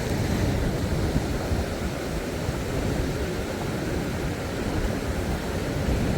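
Steady rush of sea surf along a beach, with wind rumbling on the microphone.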